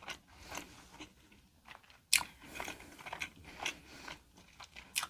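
Close-miked eating: wet chewing and biting of fast food, with a sharp crunch about two seconds in and another near the end.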